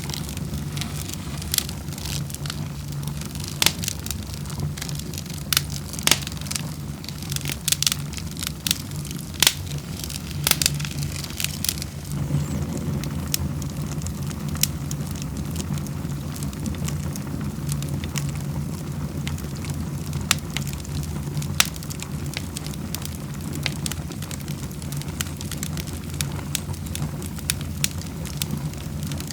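Wood fire crackling in a fireplace: many sharp pops and snaps over a steady low rumble, the pops coming thick for the first dozen seconds and thinning out after that.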